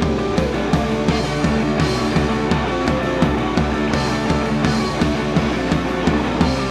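Live rock band playing: loud electric guitar, bass and drums with a steady driving beat.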